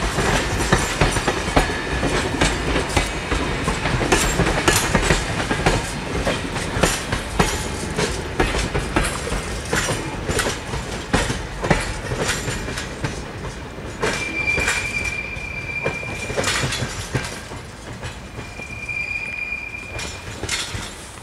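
RENFE passenger coaches rolling past and away, their wheels clicking unevenly over rail joints and points above a steady rumble that fades as the train recedes. Twice in the second half the wheels give a high, steady squeal, the first about two seconds long, the second shorter.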